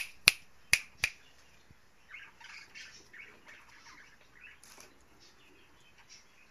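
Four sharp clicks in the first second, then soft, short chirps from pet birds for a few seconds.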